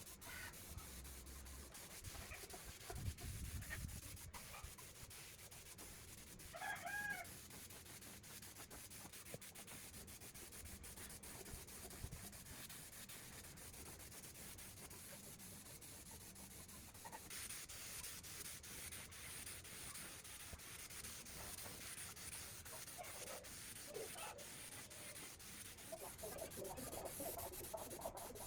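Faint steady rubbing of hand sanding, with a short high call about seven seconds in and a few brief chirps near the end.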